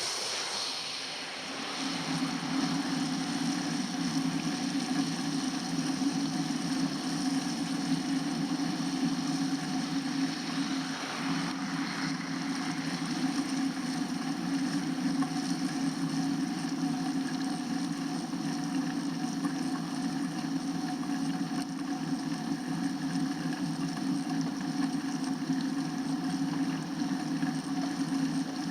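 Steady road and wind noise from a bike ride on winter roads, a constant low rumble that picks up about two seconds in and holds.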